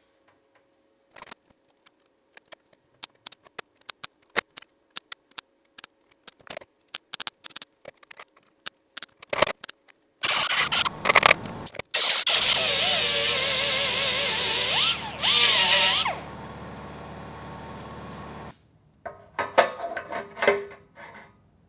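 Scattered light metal clicks and taps, then a power tool runs loudly for several seconds from about the middle, easing off before it stops. A few knocks follow near the end.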